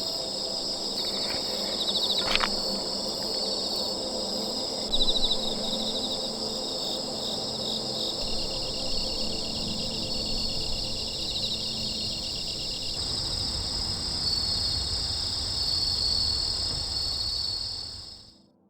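A chorus of crickets and other insects: steady high-pitched chirring with overlapping pulsed trills, fading out near the end.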